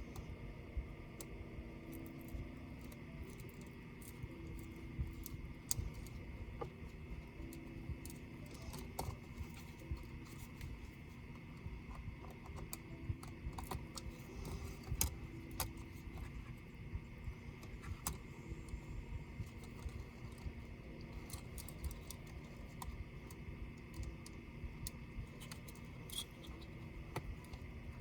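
Scattered small clicks and taps of a laptop being taken apart by hand, with tools and small parts handled, over a steady low hum.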